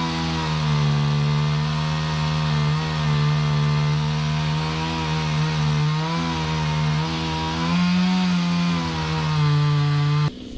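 Chainsaw running at high revs and cutting into wood, its pitch dipping and recovering a little under load. It cuts off suddenly near the end.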